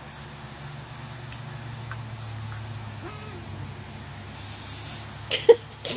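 An owl calling: a faint low note about three seconds in, then a short, louder low hoot near the end, with sharp clicks around it and a hiss just before.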